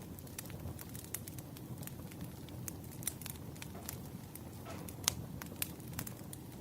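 Wood fire crackling: a steady low hiss of burning logs with irregular sharp pops and snaps, two louder pops about five seconds in.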